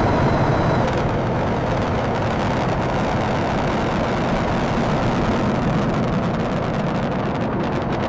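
A heavy engine running steadily, a dense low rumble with no change in speed.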